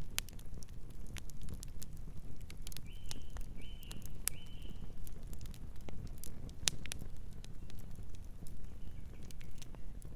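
Fire crackling with irregular sharp pops over a low rumble. A bird gives three short, quick chirps about three seconds in, and a faint one near the end.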